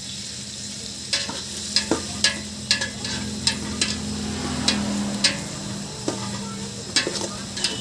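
Food frying and sizzling in oil in a cooking pan while it is stirred, with a spoon or spatula scraping and knocking against the pan about ten times.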